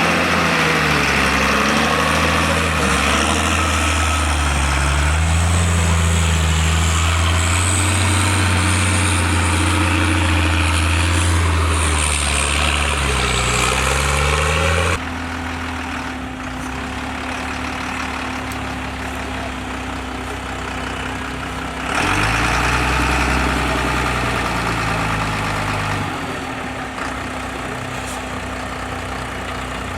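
Diesel engine of a MAN trial truck working and revving, its pitch rising and falling. The sound drops abruptly about halfway through, comes back louder a few seconds later, then drops again.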